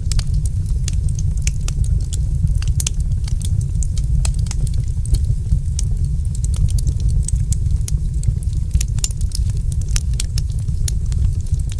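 Wood fire crackling, with many small irregular pops and snaps over a steady low rumble of burning.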